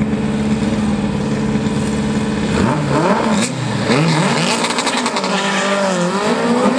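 Two Volkswagen Beetle drag cars' air-cooled flat-four engines idling on the starting line. About two and a half seconds in they rev hard, and their pitch climbs and falls repeatedly as they stage for the launch.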